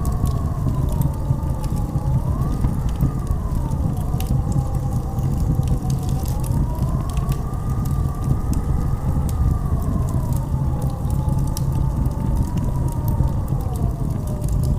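Blizzard wind howling: a whistling tone that slowly rises and falls, over a steady low rumble. Scattered sharp crackles run through it.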